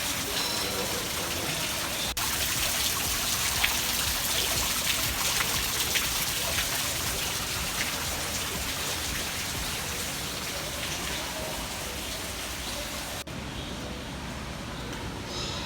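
Steady rushing, splashing water, an even hiss that changes abruptly about two seconds in and again near the end, with a few faint high chirps.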